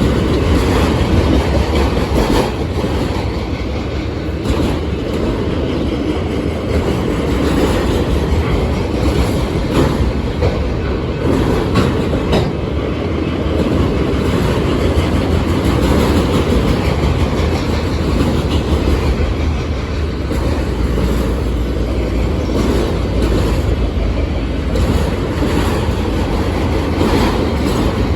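Union Pacific intermodal freight train's cars rolling past: a steady rumble of steel wheels on rail, with occasional clicks.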